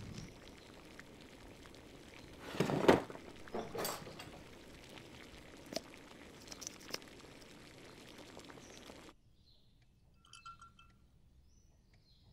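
Film sound effects: a steady hiss with a loud clinking, glassy burst about two and a half seconds in, a smaller one a second later and a few sharp clicks. About nine seconds in the hiss cuts off, leaving near quiet with faint bird chirps.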